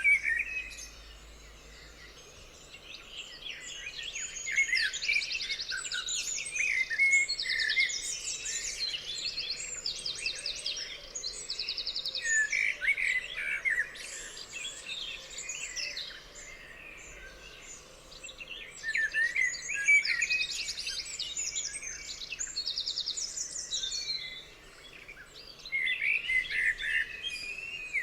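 A chorus of songbirds singing and calling over one another, with quick chirps and several fast trills, in bouts broken by brief lulls about two, sixteen and twenty-four seconds in.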